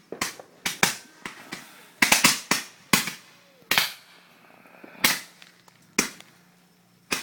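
Firecrackers going off in an irregular string of sharp bangs, about a dozen over several seconds, several fired in a quick cluster about two seconds in.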